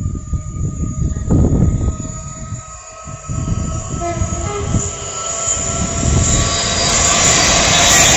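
A train approaching, its rumble and rail noise growing steadily louder over the second half.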